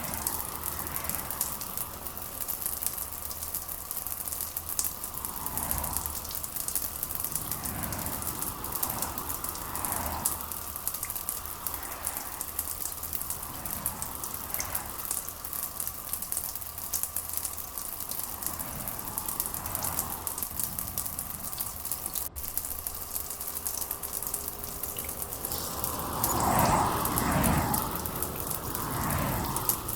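Steady rain falling, an even hiss of drops with soft swells that come and go. A louder swell comes a few seconds before the end.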